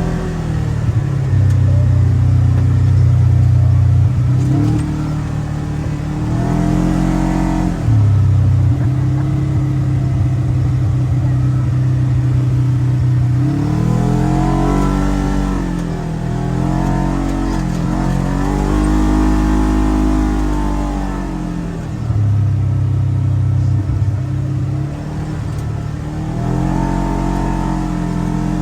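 Polaris General XP 4 1000 side-by-side's parallel-twin engine running under way, heard from the back seat. Its pitch rises and falls several times as the throttle is worked, with steady stretches between.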